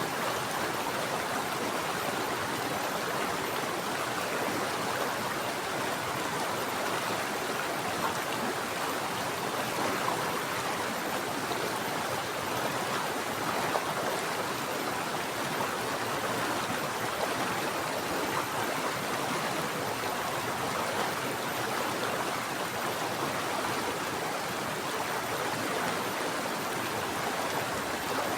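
Mountain stream water flowing and splashing steadily.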